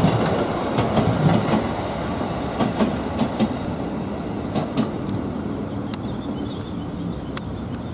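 Electric commuter train running past on the tracks, its wheels clacking over the rail joints with scattered sharp clicks. The sound slowly fades as the train moves away.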